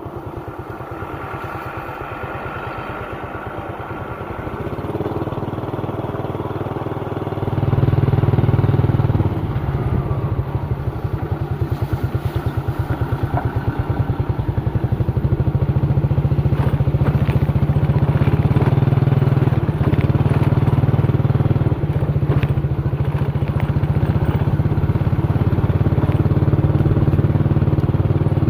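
Old truck heavily loaded with sugarcane, its engine running hard with a fast low throb and some rattle, getting louder about five seconds in and again at about eight seconds, then holding there.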